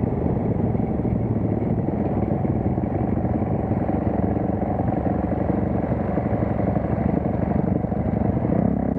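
Dirt bike engine running steadily while under way.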